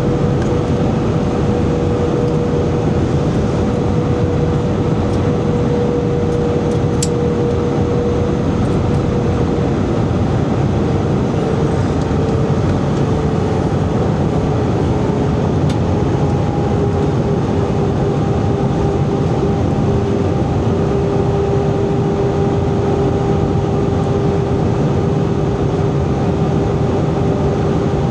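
Airbus A320 cabin noise: a loud, steady rush of air with engine hum. A steady engine tone slides slightly lower in pitch around the middle, and a second, higher tone comes in about halfway through.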